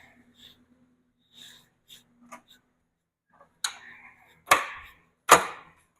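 Faint small clicks, then a sharp knock a little past halfway and two louder knocks near the end, under a second apart.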